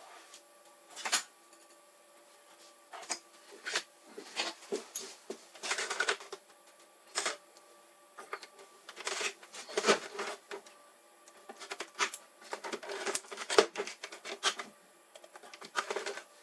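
Irregular clicks, taps and short rattles of hands handling and working on hard plastic and metal parts, a dozen or more at uneven intervals over a faint steady hum.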